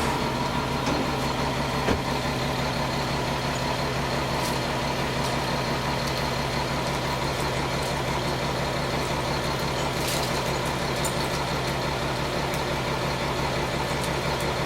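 A large engine idling steadily, with a few faint clicks.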